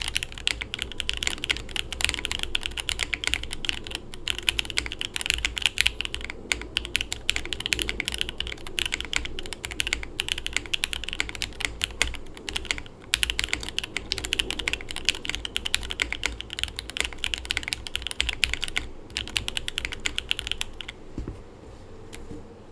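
Fast, continuous typing on a Tofu65 acrylic tray-mount mechanical keyboard with lubed Jwick Red linear switches, an FR4 plate, GMK keycaps and no foam: a dense run of key clacks with a few short pauses, stopping a little before the end.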